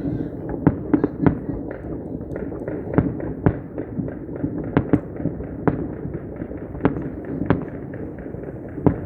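New Year's fireworks and firecrackers going off: sharp bangs at irregular intervals, sometimes several in a second, over a continuous background din.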